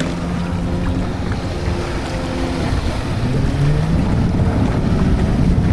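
Jet ski engine running, its pitch sliding down and back up as the throttle changes, with wind buffeting the microphone.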